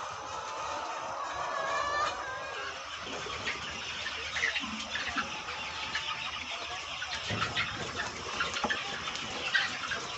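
Chickens clucking, many short calls overlapping from a flock.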